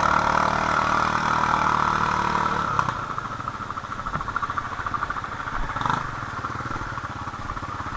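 ATV engine running at steady, high revs for nearly three seconds, then easing off to lower, uneven running.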